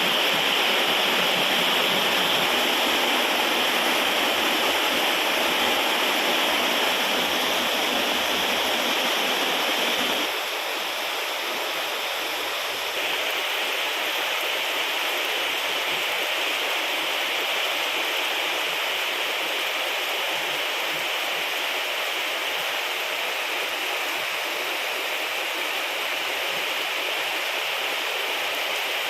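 Steady heavy rain, a dense even hiss of falling water. About ten seconds in, the low rumble drops away and it becomes slightly quieter.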